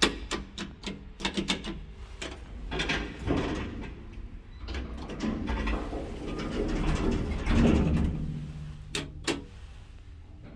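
Old Hitachi elevator's door and car mechanisms at work: a run of sharp clicks and knocks, then longer stretches of creaking and rubbing with a low hum, and two sharp clicks near the end. The creaking is the kind of odd noise that makes the old elevator unsettling to ride.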